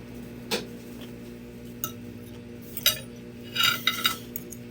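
Cutlery clinking against a plate while eating: a few separate clinks, then a quick cluster of clinks near the end, over a faint steady hum.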